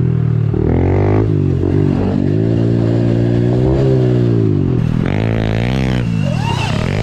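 Honda CRF110 pit bike's small single-cylinder four-stroke engine, fitted with an aftermarket exhaust, revving hard as it is ridden around a dirt track, the pitch climbing and dropping several times as the throttle is rolled on and off.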